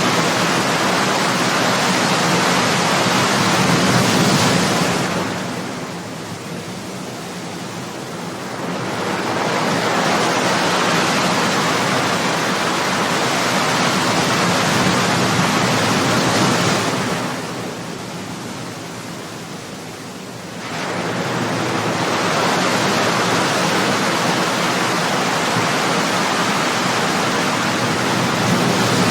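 Ocean surf: waves breaking and washing up in a loud, steady rush that eases into a quieter lull twice, about a third and about two-thirds of the way through.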